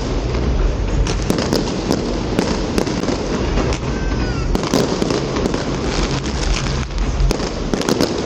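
Fireworks display: a continuous dense barrage of bangs and crackling with low booms underneath, and a brief whistle about four seconds in.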